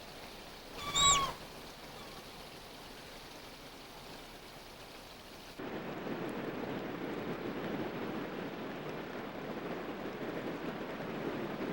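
A single short animal call about a second in, pitched and high with a falling end, over a faint steady hiss. A little past halfway the background switches abruptly to a louder, steady rushing of water.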